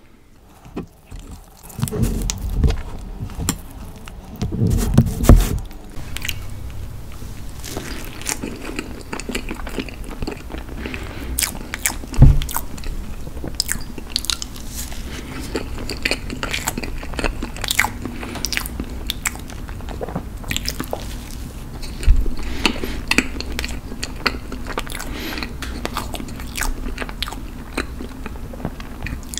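Close-miked chewing of soft, moist Costco red velvet cake with cream cheese frosting: a dense run of small mouth clicks, with a few louder low thumps in the first six seconds and once each about twelve and twenty-two seconds in.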